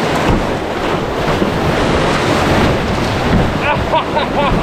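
Loud, steady rushing of whitewater river rapids, with wind buffeting the microphone. It cuts in suddenly, and a voice calls out briefly near the end.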